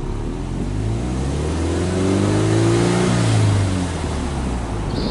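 Subaru Impreza WRX STI hatchback's turbocharged flat-four boxer engine being free-revved at standstill, heard at the quad-tip exhaust. The revs climb smoothly for about two and a half seconds, then drop back to idle.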